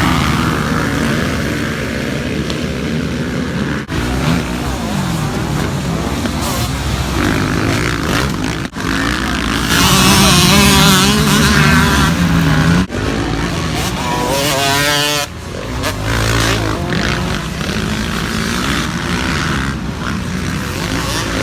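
Motocross dirt bike engines running and revving. They are loudest about ten to thirteen seconds in, and the pitch swings up and down soon after.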